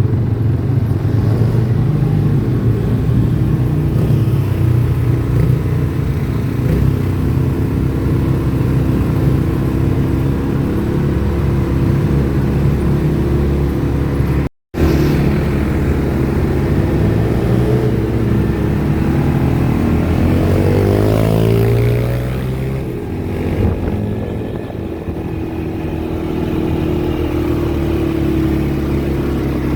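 ATV engine running while riding, its pitch rising and falling with the throttle about two-thirds of the way in. The sound cuts out completely for a split second about halfway through.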